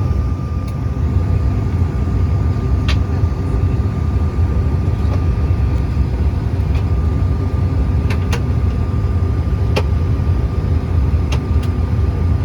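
Steady airliner cabin noise: a low rumble of the jet engines and airflow with a constant whine, and a few faint clicks.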